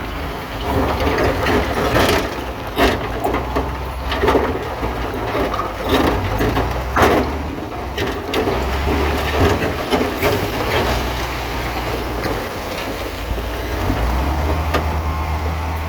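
Bulldozer's diesel engine running with a steady low drone, while rock cracks and crunches under its blade and steel tracks, giving irregular sharp knocks. The loudest crack comes about seven seconds in.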